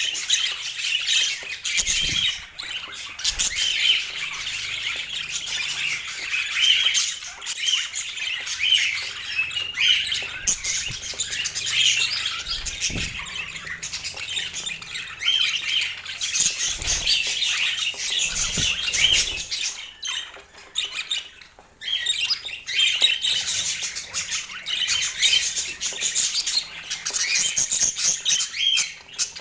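Budgerigars chattering and chirping without a break, with squawks mixed in. A few dull low thumps come through at about 2, 13, 17 and 19 seconds.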